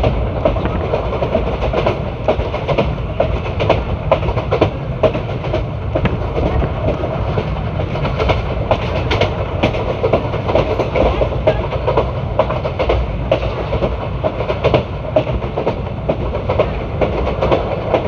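ICF passenger coaches running along the track: a steady rumble with frequent sharp clicks as the wheels pass over rail joints.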